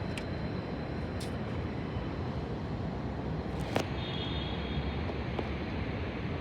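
New York City subway train running, a steady deep rumble with sharp clicks about a second in and near four seconds in, and a brief high squeal just after the second click.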